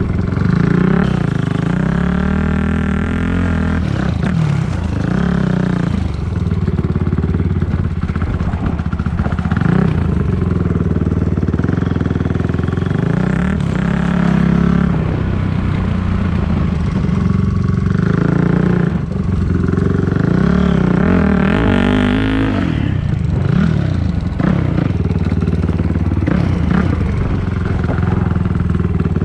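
Dirt bike engine running under way, its pitch rising and falling over and over as the throttle is worked and gears change.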